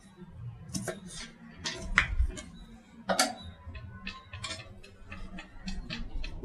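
Knife cutting raw mango on a cutting board: irregular light taps and clicks as the blade meets the board, with a sharper knock about three seconds in.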